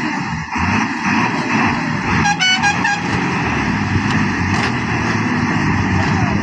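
Heavy trucks running in a continuous loud din, with a short horn blast about two and a half seconds in.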